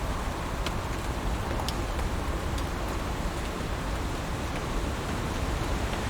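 Heavy rain falling steadily, an even hiss with a few separate drops ticking sharply now and then.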